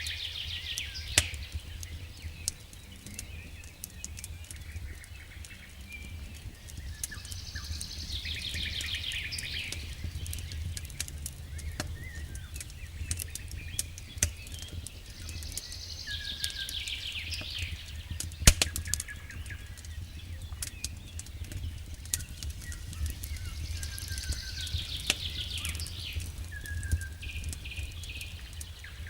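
Wood fire crackling in a fireplace, with scattered pops, the loudest about a second in and about two-thirds through, over a low steady rumble. A songbird's phrase of quick notes repeats about every eight seconds.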